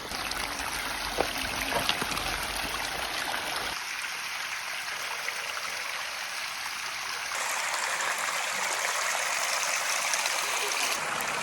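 Steady rushing noise of water, shifting abruptly in tone about four and seven seconds in.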